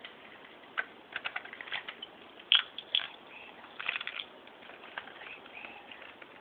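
Scattered light clicks and taps of small objects being handled: several short sharp ticks in uneven clusters over a faint background hiss.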